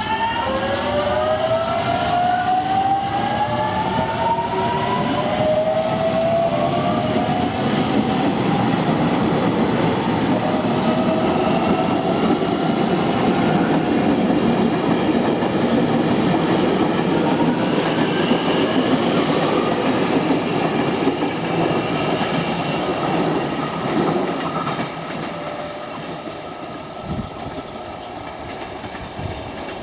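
JR Kyushu 817 series electric train's inverter-controlled traction motors whining in several stacked tones that rise in pitch as the train accelerates, over steady wheel and rail rolling noise. The whine eases and the sound gets a little quieter near the end.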